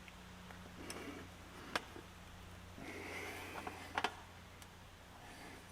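A short, faint hiss of WD-40 aerosol spray about three seconds in, with a few small clicks from carburetor parts being handled. A steady low hum runs underneath.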